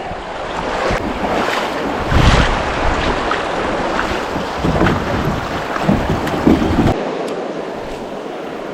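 River water splashing and running, with wind buffeting the microphone and a few short splashes. The low wind rumble drops away about seven seconds in, leaving the steadier water sound.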